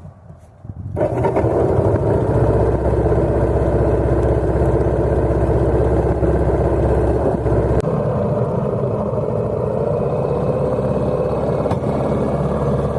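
Vintage motorcycle engine that comes in sharply about a second in and then runs steadily under way; its note changes about eight seconds in.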